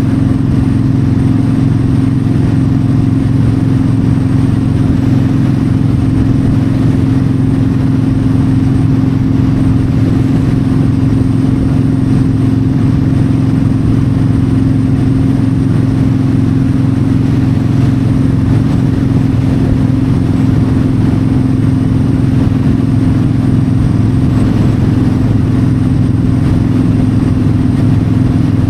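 Yamaha V-Star 1300's liquid-cooled V-twin running at a steady highway cruise, its note holding even with no change in revs, with wind noise over it.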